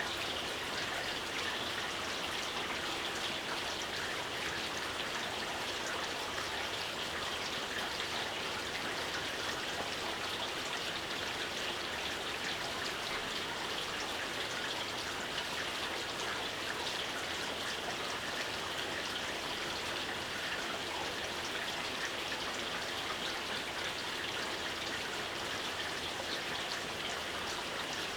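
Steady light rain, a constant even patter of many small raindrops falling on a surface.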